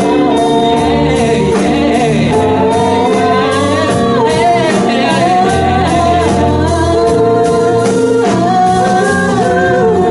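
A singer holding a sung melody that bends and wavers in pitch, over sustained keyboard chords.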